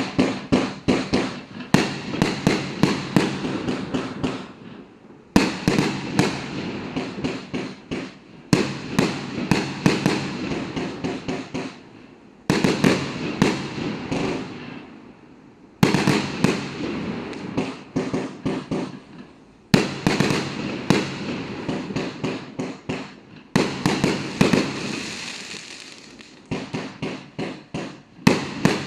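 Gemstone Fireworks Nebula consumer firework going off in repeated volleys. Each volley starts suddenly with a fast string of sharp cracks and bangs, then tails off before the next one begins, roughly every three to four seconds.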